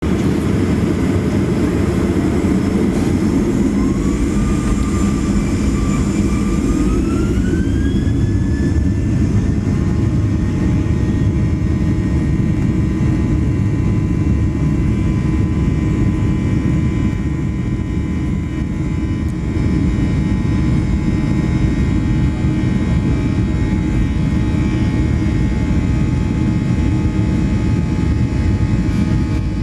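Boeing 737-800's CFM56 jet engines spooling up to takeoff thrust. A whine rises in two steps over the first several seconds, then holds steady over a heavy rumble.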